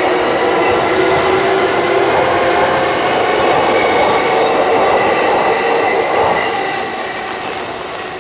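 Keihin-Tohoku Line electric commuter train pulling out and running past. The steady sound of its wheels and motors carries several whining tones and fades about six seconds in as the last car leaves.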